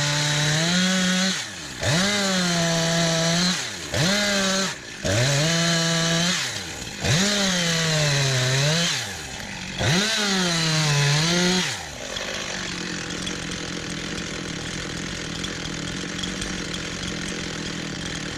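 Chainsaw cutting firewood: the engine revs and is pulled down in pitch by the wood in about five short cuts some two seconds apart. It then settles to a steady, quieter idle for the last six seconds.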